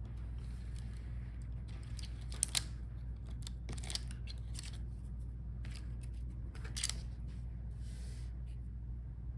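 Scattered small clicks and taps of hands and tools working the ribbon-cable connectors on a laptop motherboard, with two sharp clicks close together about two and a half seconds in and another near seven seconds, over a steady low hum.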